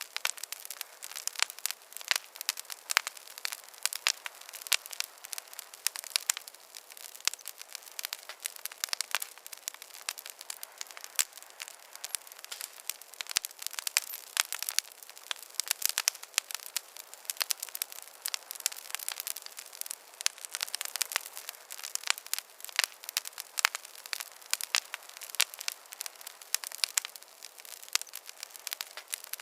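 Campfire crackling steadily, with many quick irregular pops and snaps of burning wood over a faint hiss.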